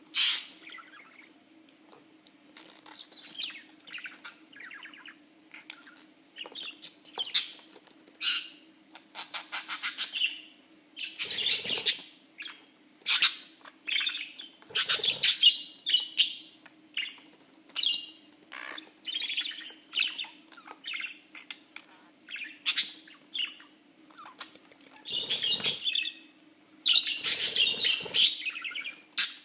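Pet budgerigar chirping and warbling in quick, irregular bursts, with a few louder, noisier bursts among them. A faint steady hum runs underneath.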